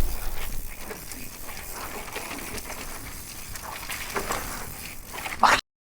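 A dog breathing and moving about close to the microphone, with scattered light clicks. A short louder sound comes near the end, then the sound cuts off abruptly to silence.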